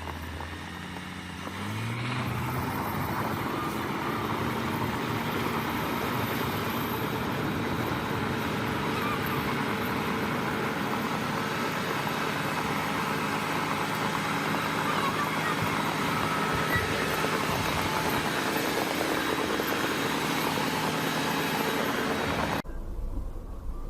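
A large engine speeding up about two seconds in, then running hard and steady under heavy, even mechanical noise, cut off abruptly near the end.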